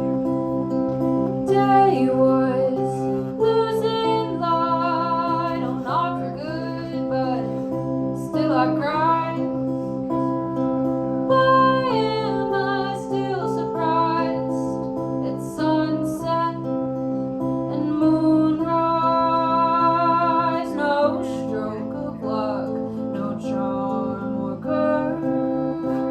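A woman singing a folk song with vibrato over acoustic guitar.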